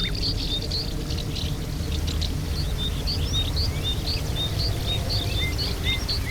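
Rainforest ambience: many birds chirping and whistling in short, repeated notes over a steady low rushing noise.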